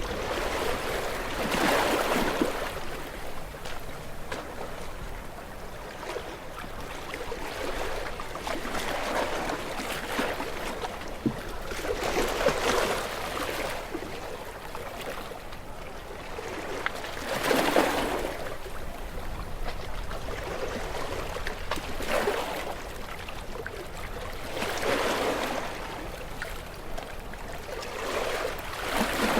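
Waves washing onto a shore, each one swelling into a rush of surf and then falling away, about six in the half minute.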